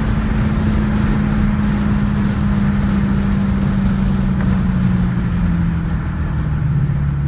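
Dodge Challenger Hellcat's supercharged 6.2-litre V8 running at low revs as the car slows after a drag run, its engine note slowly falling in pitch over heavy wind and road rumble.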